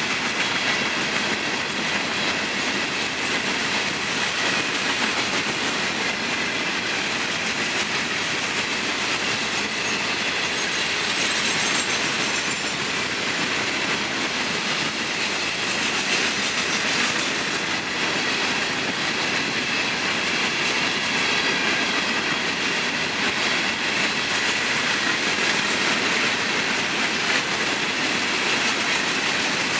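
A long freight train rolling past, its steel wheels running steadily on the rails with a thin high squeal from the wheels.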